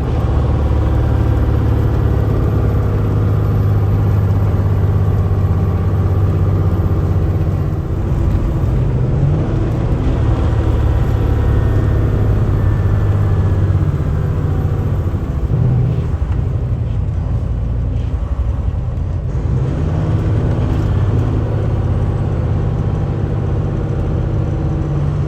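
Semi truck driving at highway speed, heard from inside the cab: a steady low engine drone under road and tyre noise, with small shifts in engine pitch.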